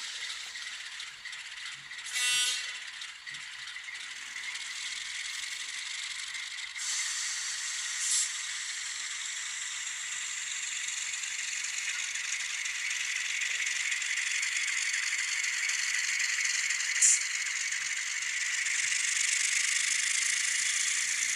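N scale Atlas Alco FA-1 locomotives running on track: a steady raspy diesel sound from their ESU LokSound decoders' tiny speakers, with no deep bass, mixed with mechanical rattle. It grows gradually louder, with a short pitched sound about two seconds in and a couple of sharp clicks.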